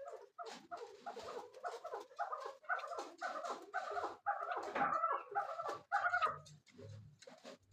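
Chukar partridge calling: a fast run of short, repeated clucking notes that grows louder through the middle and falls away softer about six seconds in.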